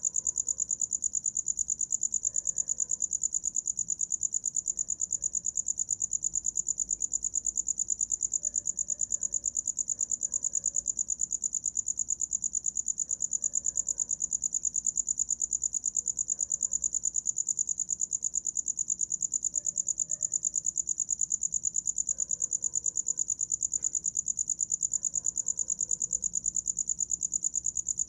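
Cricket singing: a steady, high-pitched trill of rapid, evenly spaced pulses that never breaks. Faint, short, lower sounds come every second or two behind it.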